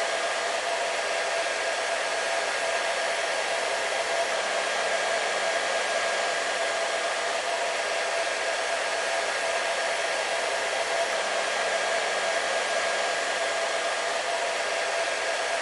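Hair dryer running steadily: an even rush of blown air with a constant motor hum, held without change.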